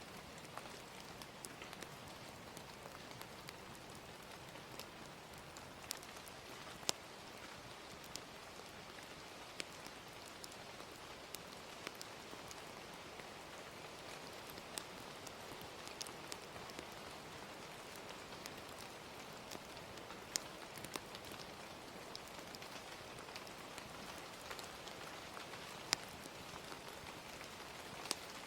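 Gentle rain falling steadily, with scattered sharp pops and crackles from a fire.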